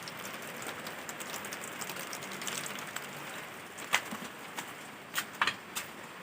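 Steady rain hiss, with a few sharp drips or drop impacts landing close by in the second half.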